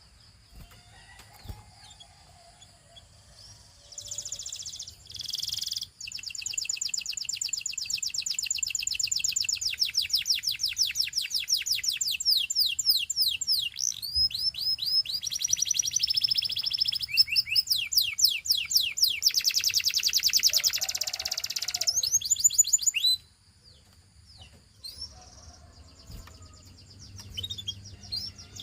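A canary singing: after a quiet start, a short phrase about four seconds in leads into a long, loud song of rapid high trills and quick sweeping notes, changing tempo from one tour to the next. It breaks off suddenly about two-thirds of the way through, leaving only faint scattered chirps.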